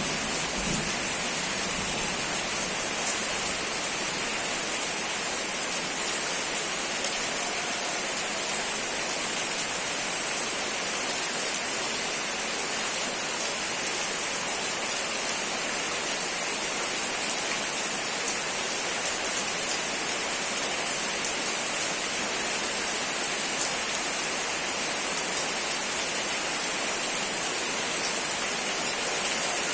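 Steady rain falling, an even unbroken hiss; a low rumble of thunder dies away within the first second.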